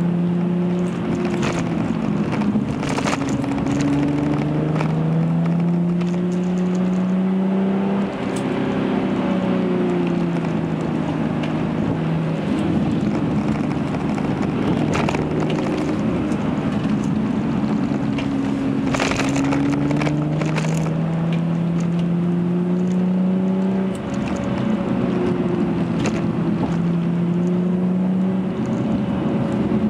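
Hyundai Genesis Coupe's 3.8-litre V6 running through a Young Motors cat-back exhaust, heard from inside the cabin. The engine note climbs in pitch under acceleration and drops back several times, with a few sharp clicks along the way.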